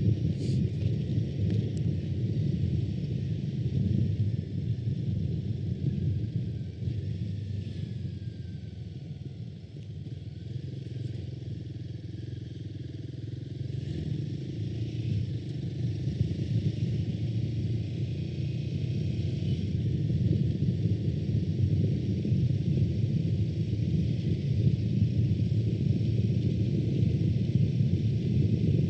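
Royal Enfield Himalayan 452 being ridden: wind rumbling over the microphone with the motorcycle running underneath. It eases off around ten seconds in and builds up again.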